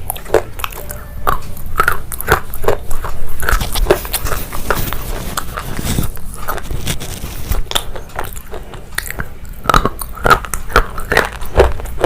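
Close-miked mukbang eating sounds: a person biting and chewing crunchy food, with a stream of short, irregular crunches several times a second.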